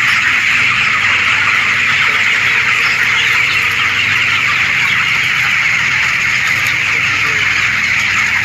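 A large flock of 27-day-old chickens, most likely broilers, calling together in their shed: a loud, steady, dense din of many overlapping chirps and clucks with no breaks.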